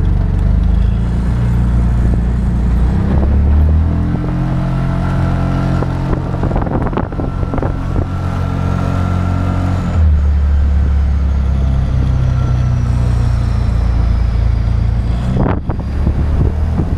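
Small 15 kW combustion engine of an open-top Patak Motors roadster running while the car drives, heard from the open cockpit. The engine note steps up and down in pitch a few times as speed changes.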